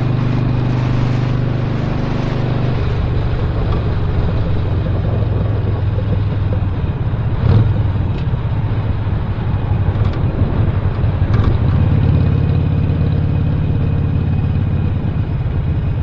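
2017 Harley-Davidson Sportster Roadster's Stage 1-upgraded 1200 cc air-cooled V-twin running under way. Its note changes about three seconds in and grows stronger again near the end, with a few short knocks around the middle.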